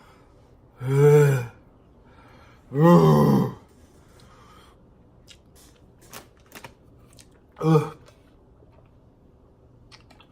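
A person's wordless groans while eating, three of them: two longer ones about a second and three seconds in, and a shorter one near the end, reacting to a taste found disgusting. Faint clicks come between them.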